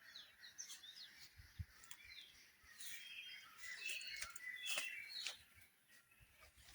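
Small birds chirping at dawn: scattered short chirps and tweets, faint, with a few soft clicks among them.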